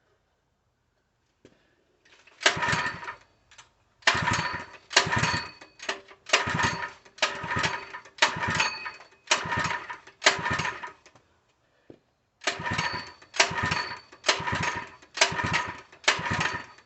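Recoil pull-starter of a 3 hp single-cylinder small engine being yanked over and over, about ten quick pulls, a short pause, then about six more. The engine cranks with each pull but does not fire or keep running: a no-start that the owner puts down to fuel not reaching the engine.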